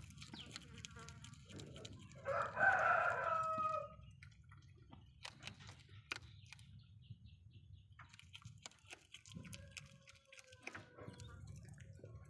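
A rooster crows once, a call of about a second and a half, a couple of seconds in. Scattered small clicks and a low steady hum fill the rest, with a fainter drawn-out call near the end.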